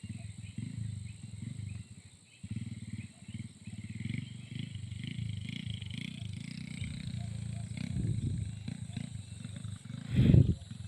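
Motorcycle engine running at low revs while riding, a steady low pulsing rumble. About ten seconds in there is a brief, much louder low rumble.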